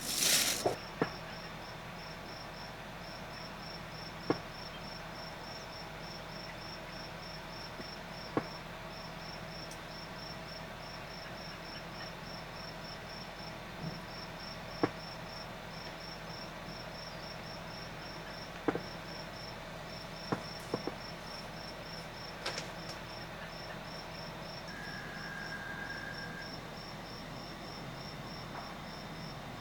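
Crickets chirping steadily in a rapid, even pulse, with a few scattered sharp clicks.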